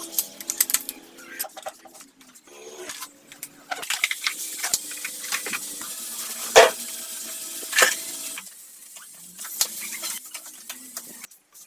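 Hand tools and metal parts clinking and tapping, with a sharp knock about six and a half seconds in and another about a second later.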